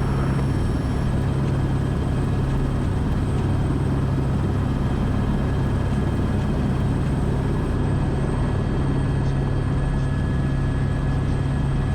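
AS355 Twin Squirrel helicopter's twin turbine engines and rotors running steadily on the ground, engine speeds matched and rotor at flying speed with the collective still down, just before power is pulled for takeoff. A steady low hum with faint high whine, unchanging throughout.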